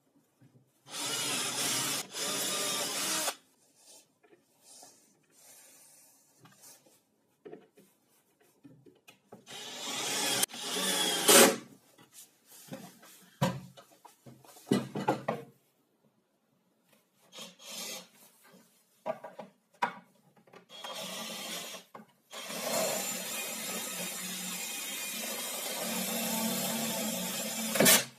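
Wood being worked by hand with a tool, rubbing or rasping. It comes in bursts of a second or two with quiet gaps, then runs steadily for the last five seconds or so.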